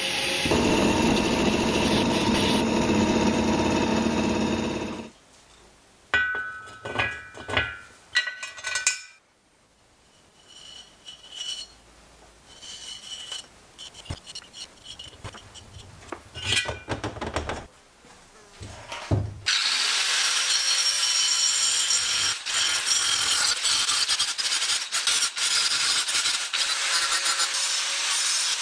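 Workshop tool noise: a loud, steady power-tool run for about five seconds, then a quieter stretch of separate clinks and taps, some of them ringing, then a loud, even, rasping noise of abrasive rubbing from about two-thirds of the way in.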